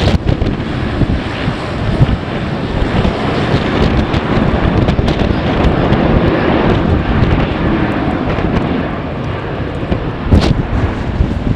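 Strong gusty wind buffeting the microphone: a loud, steady rush with rumbling low thumps, and a sharp knock near the end.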